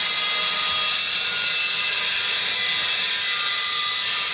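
Handheld electric circular saw (a 'maquita') running and cutting, a steady high-pitched whine with hiss that does not let up.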